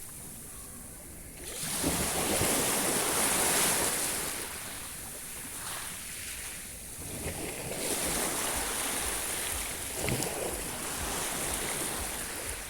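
Sea waves washing onto the shore. A wave breaks loudly about a second and a half in and surges for a couple of seconds, and smaller waves follow near the middle and towards the end.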